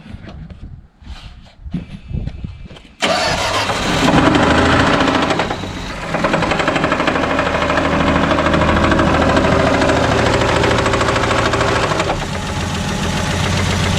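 1978 Plymouth Volare's slant-six engine catches about three seconds in and runs steadily. It is still knocking with Lucas oil additive in the crankcase: the additive has not cured the knock.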